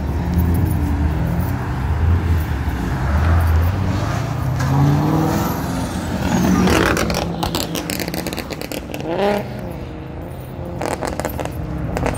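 Car engines passing at close range: one accelerates past with its pitch rising, loudest about five to seven seconds in, then fades away under lighter traffic noise.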